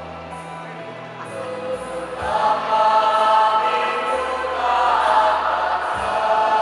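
High school choir singing, held notes changing in steps, swelling louder about two seconds in, with low held notes underneath.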